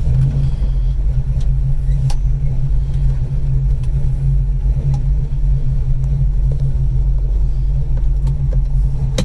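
1968 Ford Mustang's 310 small-block Ford V8, with a Lunati cam and Quick Fuel carburettor, idling steadily, heard from inside the cabin as a deep, even rumble.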